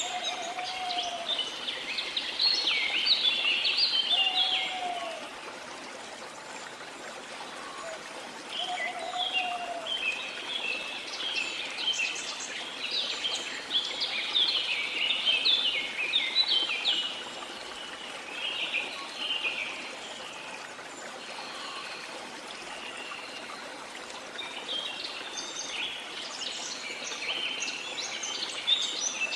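Several birds singing in busy, rapid bursts over the steady rush of flowing water. Three short, lower whistled notes sound in the first ten seconds.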